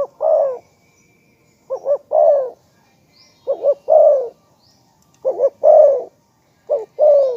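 Spotted dove cooing its calling song over and over: each phrase is two short notes followed by a longer, falling coo, repeated about every second and a half to two seconds. Faint chirps of small birds sound in the background.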